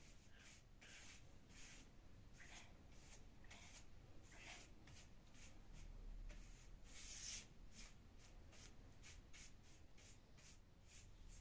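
Faint, irregular rubbing strokes against a surface, one or two a second, with one longer, louder stroke about seven seconds in.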